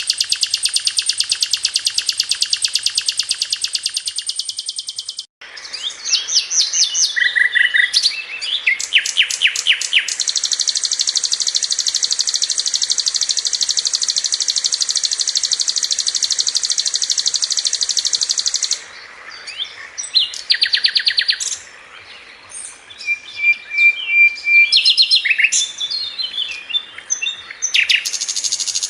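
Sikatan londo flycatcher song: rapid high trills and sharp repeated chirps. An abrupt cut about five seconds in leads to varied call phrases, then a long unbroken buzzy trill, then more scattered chirps and short trills.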